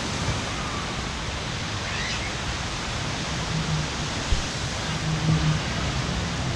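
Steady rushing outdoor noise, with faint distant voices now and then.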